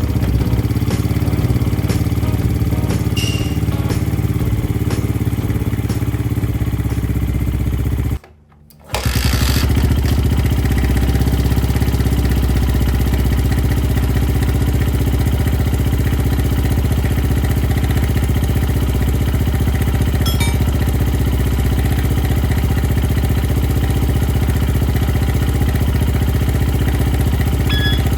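Honda Ape 50's small single-cylinder four-stroke engine idling steadily, run to check for the cam chain clatter ('kata-kata') that a cam chain tensioner adjustment is meant to cure. There is a brief break about eight seconds in.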